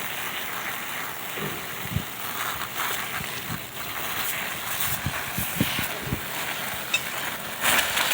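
Water spraying and running over rusty metal tools in a strainer as they are rinsed after an orange-juice rust soak, a steady hiss with a few low knocks and bumps.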